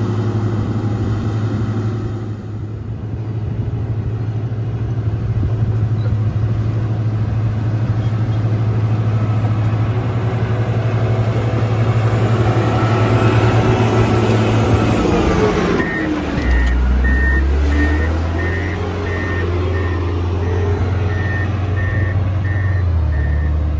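Road grader's diesel engine running steadily under load, then dropping in pitch as the machine changes direction, with its reversing alarm beeping about one and a half times a second through the last third.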